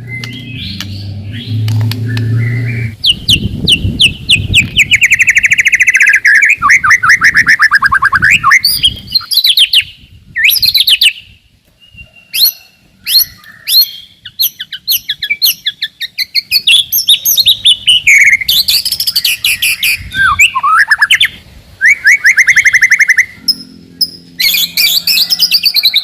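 White-rumped shama (murai batu) singing in fast runs of rapidly repeated notes, some phrases sliding down in pitch, broken by short pauses. A low hum sounds under the first few seconds.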